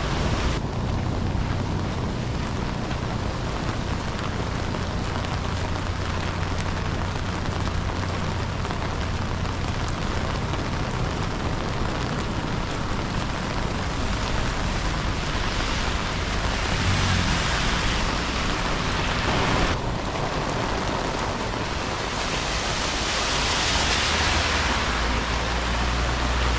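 Steady rain falling, heard through a GoPro's microphone, with a low rumble underneath. The hiss of the rain swells a couple of times in the second half.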